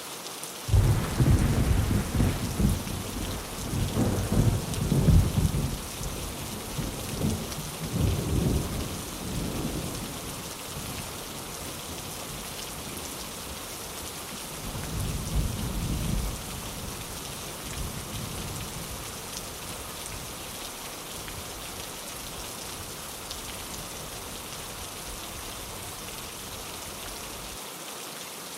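Steady heavy rain, with a loud rolling thunder rumble that starts about a second in, swells several times and dies away over about ten seconds. A second, softer roll of thunder comes about halfway through.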